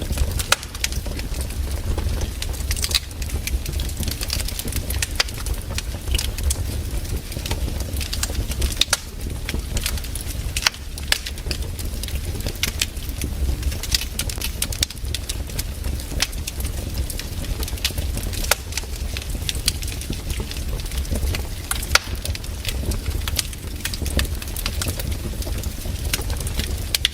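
Campfire burning, the wood crackling and popping in irregular sharp snaps, several a second, over a steady low rumble.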